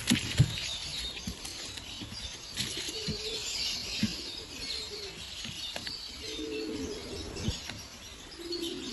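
A flock of small caged birds chirping and chattering over one another, with wing flutters, a few short lower calls, and scattered light knocks.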